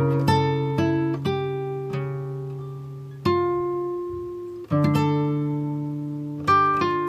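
Background music: plucked guitar notes and chords, each ringing and fading before the next, with fresh chords struck about three seconds in, near five seconds and near the end.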